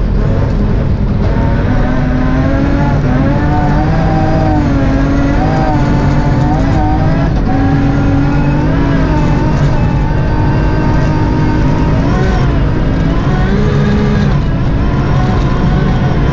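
BMW M3 rally car's engine heard from inside the cabin, driven hard at high revs, its pitch rising and dipping as the throttle is worked, with an upshift from fourth to fifth gear. Steady tyre and road noise runs underneath.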